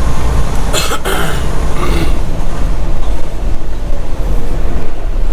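Semi truck's diesel engine running, heard from inside the cab as a steady low drone, with a short noisy burst about a second in and a weaker one about two seconds in.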